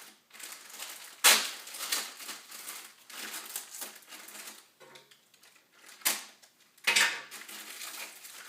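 A small plastic bag being opened and its contents handled: a run of crinkling and rustling, with a few sharper crackles about a second in and again near the end.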